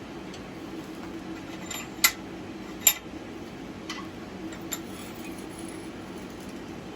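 Two sharp metallic clinks about a second apart, then a few fainter ticks, from the quenched steel blade being handled in the vise jaws, over a steady low hum.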